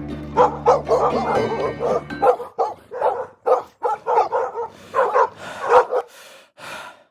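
Several dogs barking and yipping over and over, growing fainter near the end, over a low held music bed that stops about two seconds in.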